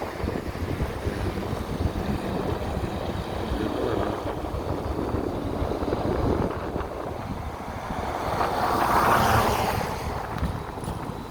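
Wind buffeting the microphone over road traffic; a vehicle passes, swelling and fading about nine seconds in.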